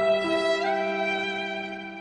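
Sad violin sound effect: a slow, mournful violin melody of long held bowed notes, the pitch stepping to a new note a few times.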